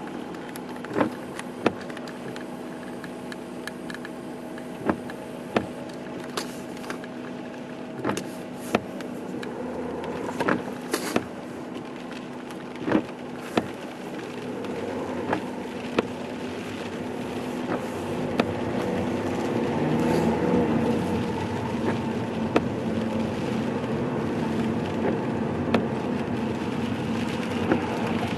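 Car engine heard from inside the cabin, running with a steady hum, then picking up speed about halfway through as it gets louder and its pitch rises. Scattered sharp clicks sound now and then, mostly in the first half.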